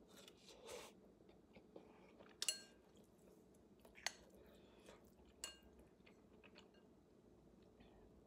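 Faint chewing of a mouthful of soft, mushy rice, with a few sharp clicks of the mouth and spoon scattered through it, the clearest about two and a half, four and five and a half seconds in.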